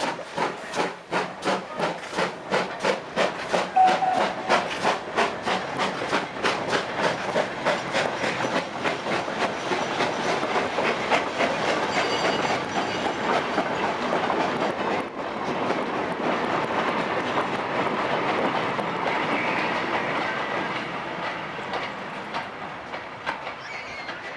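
A train running past: a fast, regular clatter of wheels over the rail joints, loudest about four seconds in, that turns into a steady rolling rumble and fades away near the end.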